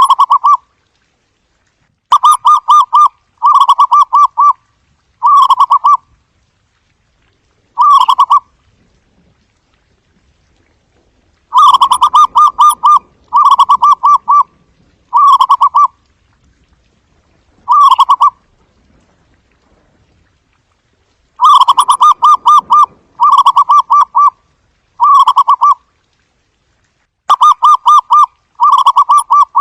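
Zebra dove cooing: short phrases of rapid staccato coos, each under a second long, repeated in bouts of three or four, with pauses of a few seconds between the bouts.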